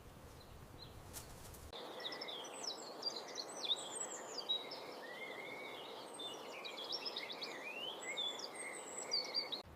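Several birds chirping and whistling in short overlapping calls over a steady outdoor hiss, starting abruptly a little under two seconds in after a low quiet hum.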